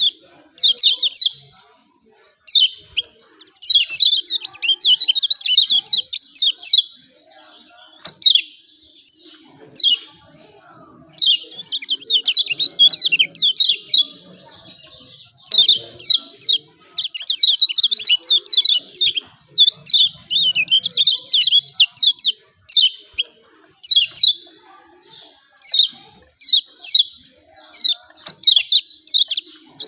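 Kecial kuning (a white-eye) calling in rapid runs of sharp, high 'ciak ciak' chirps. The runs last one to several seconds, with short pauses between them.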